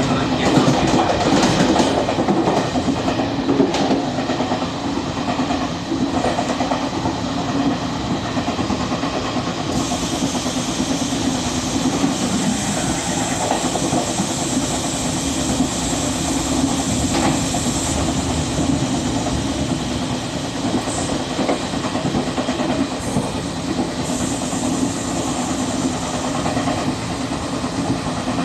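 Electric train running along the track, heard on board: a steady rumble of wheels on the rails.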